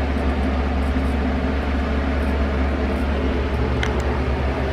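A steady low mechanical hum with an even hiss over it, and a couple of faint ticks about four seconds in.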